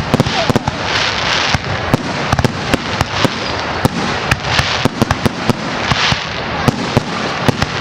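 Public firework display going off: rapid crackling and popping effects, several bangs a second, over a steady fizzing hiss that swells now and then.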